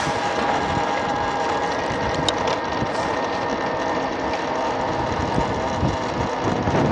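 Wind rushing over the microphone and road noise from a moving MX Sting electric motor scooter, with a steady whine from its electric drive.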